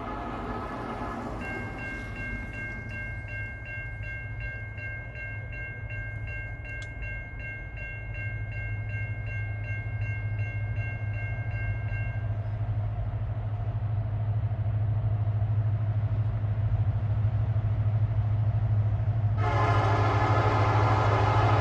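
Norfolk Southern SD70M-2 diesel locomotive approaching at track speed. A horn blast trails off in the first second or two, then a grade-crossing bell dings about twice a second until about halfway. The locomotive's low rumble grows steadily louder, and a loud horn blast starts near the end.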